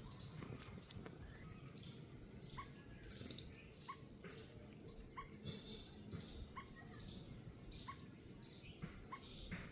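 A bird repeats a short chirp about once every second and a half, over fainter high-pitched calls and a low background rumble.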